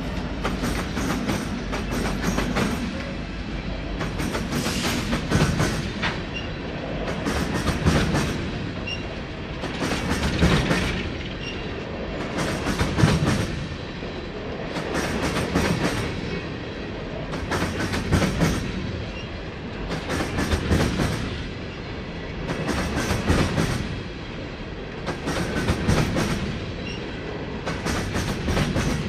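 Empty coal train cars rolling past at steady speed, their wheels clicking over the rail joints. A cluster of clacks comes about every two and a half seconds as each car goes by.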